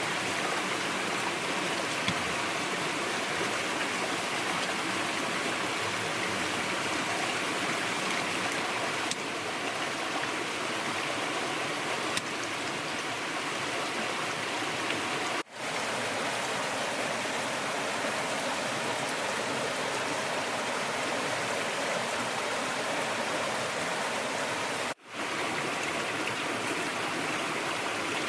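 Steady rushing water noise, like a stream flowing, broken by two very brief drop-outs.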